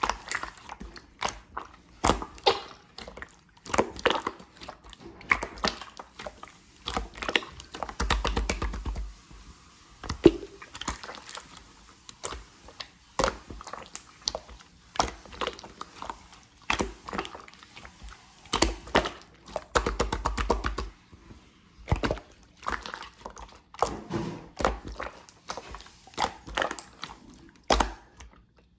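Clear slime being squeezed and pressed by hand, giving irregular sticky pops and clicks, with longer squelches about eight and twenty seconds in.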